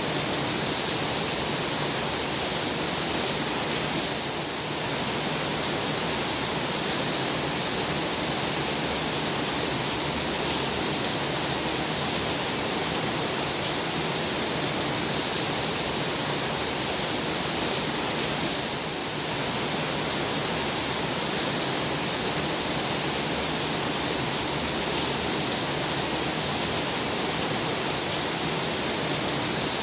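Heavy rain falling in a steady, dense hiss, dipping slightly in level twice.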